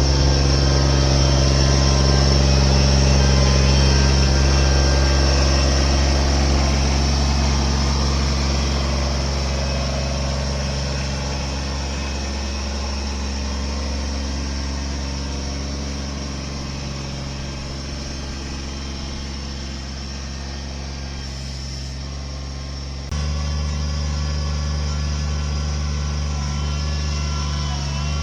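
A large engine, such as that of a machine clearing land, running steadily. It fades gradually over the middle, then jumps back up suddenly about three-quarters of the way through.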